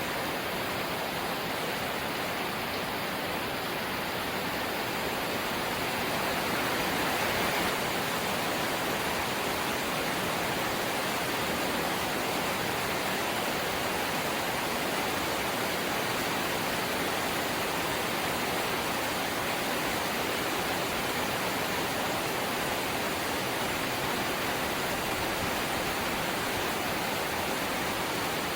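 Rain falling on a corrugated zinc (seng) roof: a steady, dense hiss that swells a little about six seconds in.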